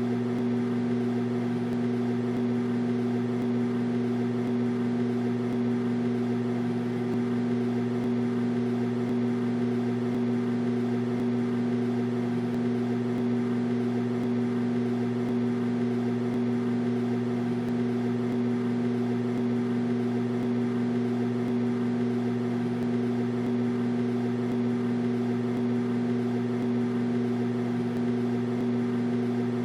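Microwave oven running: a steady, unbroken hum.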